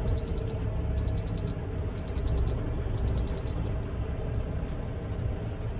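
Steady semi-truck engine and road rumble heard from inside the cab, with a short high electronic beep repeating about once a second, four times, stopping about three and a half seconds in.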